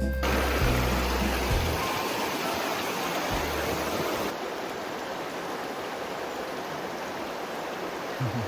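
Rushing river water, a steady even rush. Background music with a bass line runs under it for the first two seconds and then stops.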